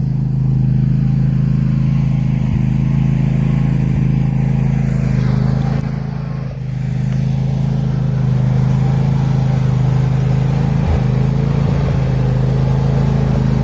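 A steady low engine drone runs without a break, dipping briefly about six and a half seconds in.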